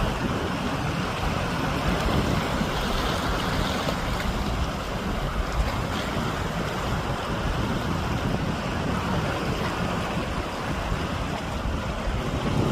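Steady rushing outdoor noise with an uneven low rumble, like wind buffeting the microphone; no distinct birdsong stands out.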